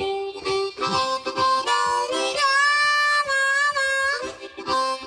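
Blues harmonica riff played solo: a run of short notes, then a long held note about halfway through that bends up into pitch at its start, followed by more short notes.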